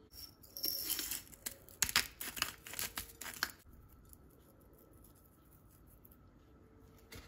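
Crinkling, tearing noise with many quick sharp clicks for about three and a half seconds, then low room tone.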